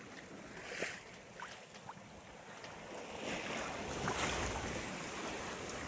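Sea water rushing and washing against a sailboat's hull under way, with wind on the microphone. The water swells up louder about three to four seconds in, and a few faint ticks come through.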